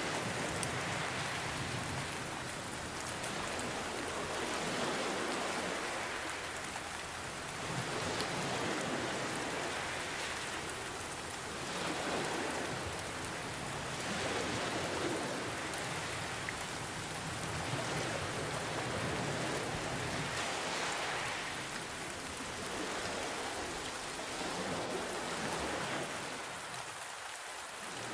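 Steady rain mixed with ocean waves, a dense hiss that swells and eases slowly every few seconds as waves wash in.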